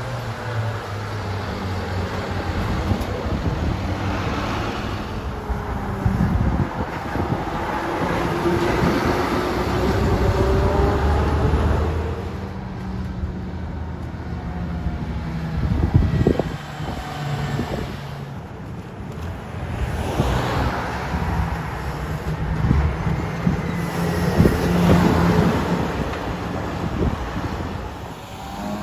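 Heavy diesel trucks driving past one after another, engine and tyre noise swelling and fading as each goes by.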